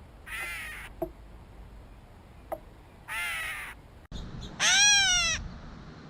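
Gray catbird giving its cat-like mew call three times, each a short nasal mew that rises and falls in pitch, the last the loudest.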